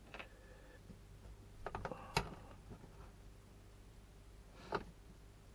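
Small parts of a Kyosho Mad Force RC truck being handled and fitted, giving light clicks and clatter: one click at the start, a quick run of clicks about two seconds in, and another near the end.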